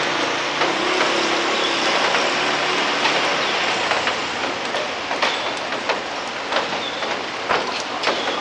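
Steady rain hiss, with scattered sharp drip clicks that come more often in the second half. A faint low hum fades out in the first couple of seconds.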